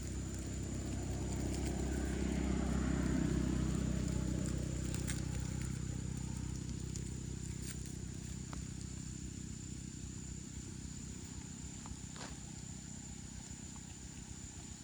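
An engine running, growing louder about two to four seconds in and then slowly fading, with a steady thin high whine above it.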